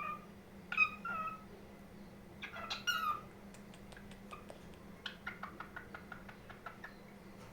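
Cockatiel calling: two drawn-out pitched calls in the first few seconds, then a quick run of short chirps and clicks.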